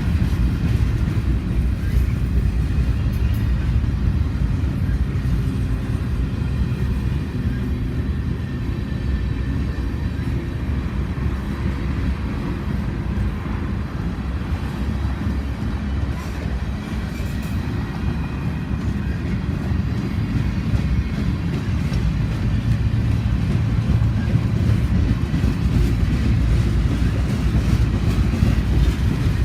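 Freight train running, a steady low rumble that swells slightly near the end.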